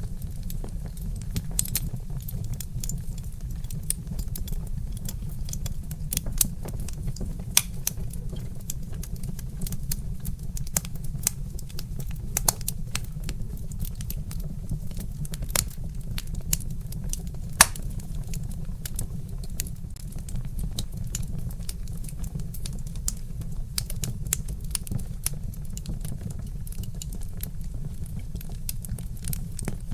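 Wood fire crackling steadily, with irregular sharp snaps and pops from burning logs, a few of them louder, such as one about halfway through, over a constant low rumble.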